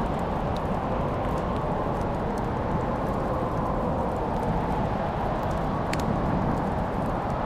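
Fireplace fire crackling over a steady low rumbling hiss, with scattered sharp pops, the loudest about six seconds in.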